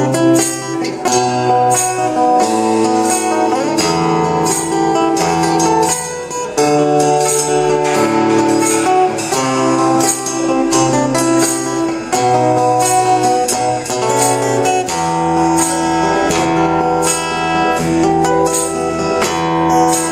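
Live rock band playing an instrumental introduction: sustained guitar chords over a moving bass line, with a steady drum beat and cymbal strokes.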